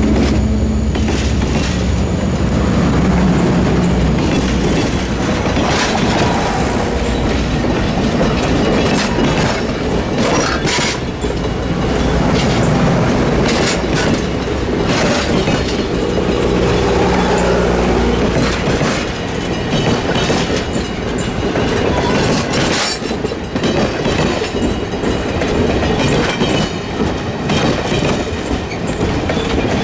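Passenger train cars rolling past close by on jointed track, steel wheels clicking over the rail joints. Under them runs a steady low rumble that drops away about two-thirds of the way through.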